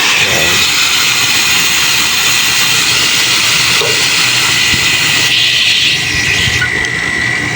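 Water pump running with water rushing through the pipes at strong pressure: a loud, steady hiss with a thin steady whine, the flow restored after air was bled from the lines. The hiss shifts a little about five to six seconds in.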